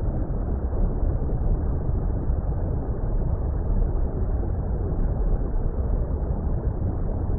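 Steady, deep water rumble of an underwater-style ambience: an even, muffled wash of low noise with no distinct events.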